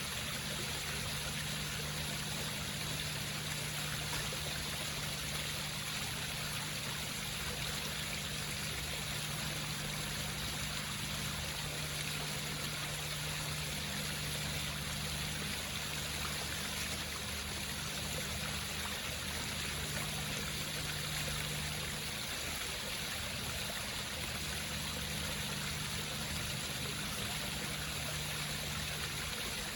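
Water trickling and splashing steadily down the rocks of an indoor home waterfall, with a steady low hum underneath.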